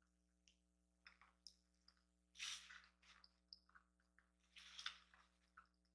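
Close-miked chewing of a chorizo, egg and cheese breakfast burrito: soft wet mouth clicks and smacks. There are two louder stretches of chewing, about halfway through and near the end.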